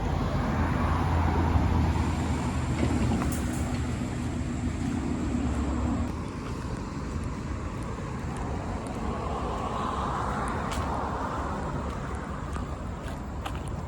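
Road vehicle engine and tyre rumble, loudest for the first six seconds, then dropping away to fainter steady traffic noise as the vehicle moves off.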